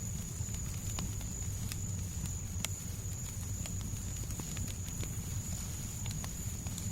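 Fireplace crackling: irregular sharp pops and ticks over a steady low rumble, with a thin steady high tone running underneath.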